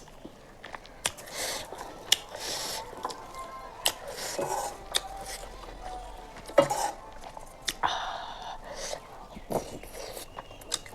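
Close-up eating sounds: chewing and lip smacks in irregular short clicks, with a few light knocks of dishes.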